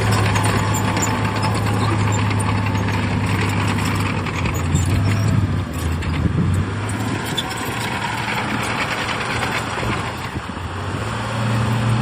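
Heavy diesel engine of earthmoving machinery running under load, a steady low hum with rattling and clanking over it. The hum eases off for several seconds in the middle and picks up again near the end.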